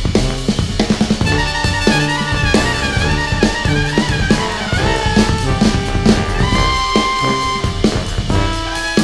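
Jazz brass ensemble playing: trumpets and baritone saxophone carry a melody over tuba, keyboards and a drum kit keeping a steady beat. A long held note sounds from about six and a half seconds to eight.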